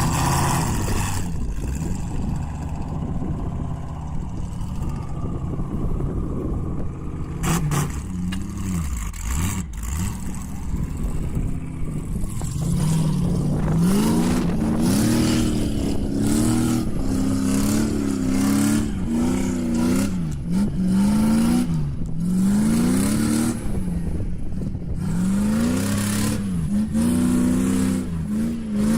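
A vehicle engine running, then revving up and down repeatedly from about halfway through.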